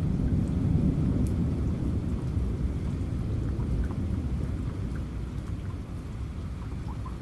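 Rolling thunder, a deep rumble that slowly fades over several seconds, over steady rain with scattered drop ticks.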